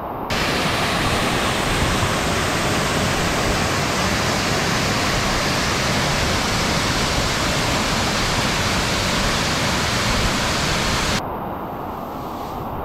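Waterfall water rushing: a steady, loud wash of noise that stops abruptly about eleven seconds in, leaving a quieter, duller sound of flowing water.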